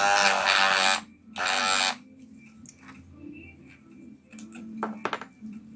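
Wahl Senior electric hair clipper switched on for two short buzzing runs, the first about a second long and the second shorter, during a test of its sound after restoration work on the blade. A few faint clicks follow.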